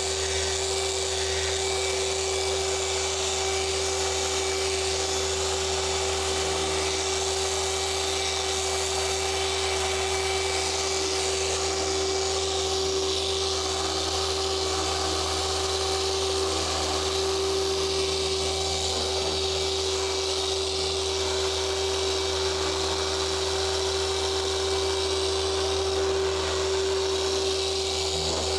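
Handheld electric car polisher running at a steady speed with a constant whine and low hum, its pad working over the paint to cut out swirl marks and water spots.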